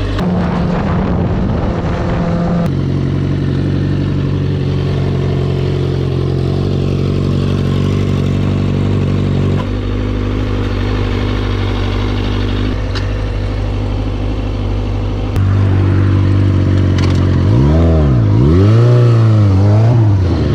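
Kawasaki ZX-6R inline-four engine running at steady pitches that jump abruptly a few times, then revving up and down in several quick swoops near the end.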